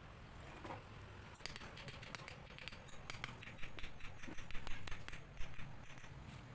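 An irregular run of short, sharp clicks and snips from hand tools working on electric motor wiring, thickest in the middle few seconds.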